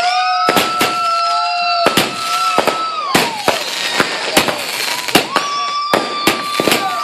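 Consumer aerial fireworks going off in quick, irregular bangs and crackles. A steady whistle from a whistling shell holds for about three seconds and then sags in pitch, and another whistle starts about five seconds in.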